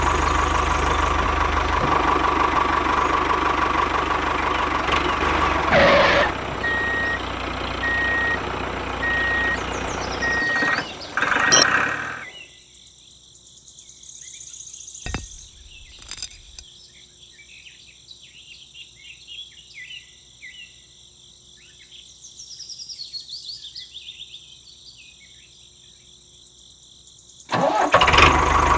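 Tractor engine idling steadily for about twelve seconds, then it gives way to quiet with a few small clicks as a pin is fitted through a model trailer's hitch. The engine sound comes back about a second before the end.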